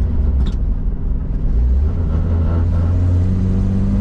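1958 Rambler's 195 inline-six engine running steadily while the wagon is driven, a low even drone. There is a brief click about half a second in.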